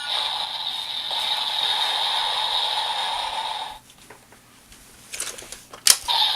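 Toy transformation belt's small speaker playing a steady hissing sound effect that cuts off about four seconds in, followed by a few sharp plastic clicks and scrapes from handling the belt.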